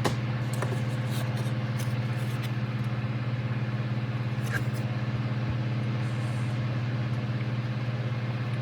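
A steady low hum runs throughout, with a few light clicks and taps as small plastic model parts are handled.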